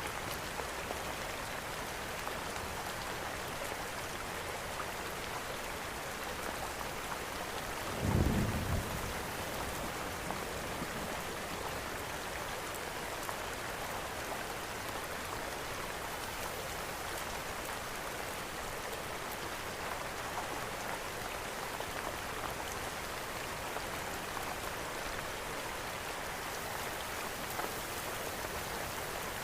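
Steady rainfall mixed with a crackling fireplace. About eight seconds in there is one brief low rumble of thunder.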